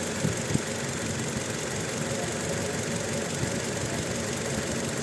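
Toyota Innova four-cylinder petrol engine idling with a misfire that no trouble code flags: the second cylinder's ignition voltage jumps to around 80 kV, which the mechanic pins as the problem.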